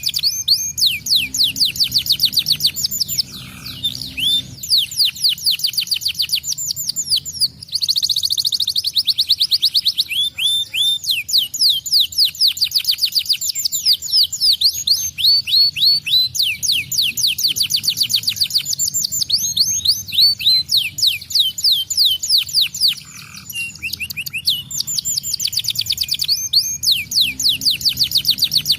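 Domestic canary singing nonstop, in fast rolling trills of quick high chirps, phrase after phrase with only short breaks.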